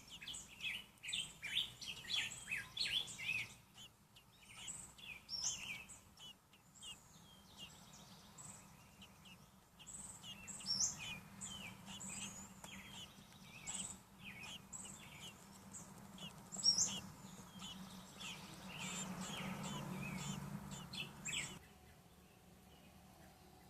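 Baby American robins in the nest peeping: many short, high chirps, busiest in the first few seconds, then scattered. A low hum rises under them in the second half, and both stop abruptly near the end.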